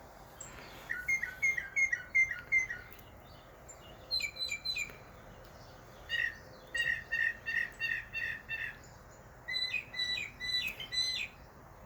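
A bird calling in four runs of quick, repeated chirps, each run lasting one to two seconds with short pauses between.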